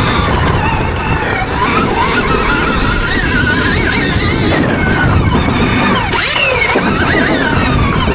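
Stark Varg Gen 2 electric motocross bike being ridden: the electric motor's whine rises and falls in pitch again and again with the throttle, over a loud low rumble.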